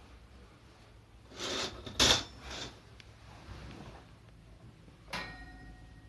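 Objects being handled on a hard surface: a brief scrape, then a sharp clack, a smaller clack, and a few seconds later a knock that rings briefly.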